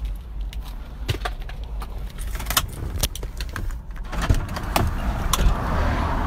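Car running, heard from inside: a steady low road rumble with scattered light clicks and rattles. A hiss grows louder from about four seconds in.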